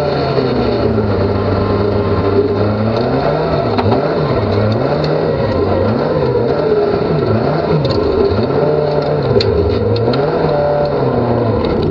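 Toyota Corolla rally car's engine heard from inside the cabin on a stage run, holding a steady note for about three seconds, then rising and falling again and again as the throttle is worked, with scattered sharp ticks.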